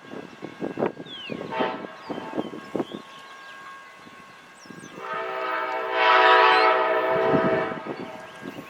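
Train rolling by with scattered knocks and clanks, then a locomotive air horn sounds one long blast about five seconds in, lasting about three seconds.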